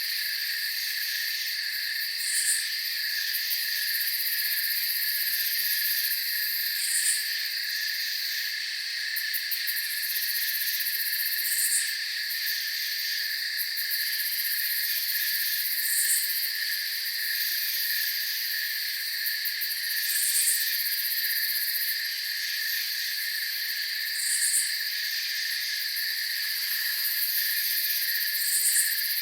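Night chorus of crickets and other insects chirring steadily, with a brief higher-pitched chirp repeating about every four and a half seconds.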